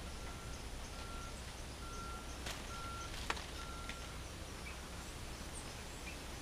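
Riverbank ambience: a steady background hiss, with a bird repeating a short, even whistled note about once a second that stops about four seconds in. Two sharp clicks sound near the middle.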